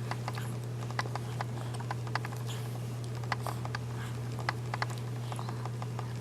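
Scattered, irregular light clicks and taps from a baby handling puff snacks, over a steady low hum.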